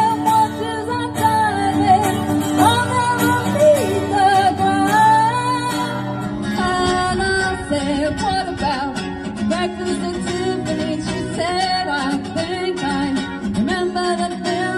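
Live band playing a song: a woman singing a wavering melody over guitar chords.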